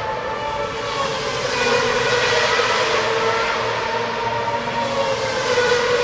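Racing car engines at high revs, several engine notes overlapping and slowly rising and falling over a steady wash of noise.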